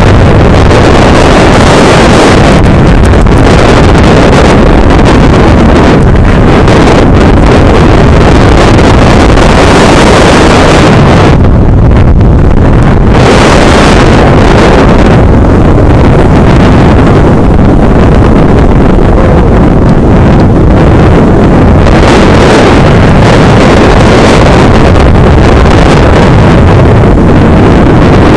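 Loud, steady wind noise buffeting the camera microphone, a dense roar with no pitch to it that eases briefly about twelve seconds in.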